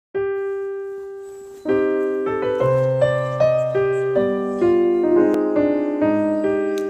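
Solo piano music: one note rings and fades, then a gentle run of notes and chords begins about a second and a half in.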